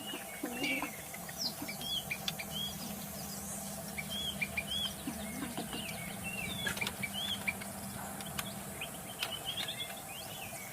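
White-rumped shama calling in the wild: short, repeated arching whistled notes and chirps, loose and irregular rather than a full song. A few low clucking calls come through underneath, with a steady low hum that stops about two seconds before the end.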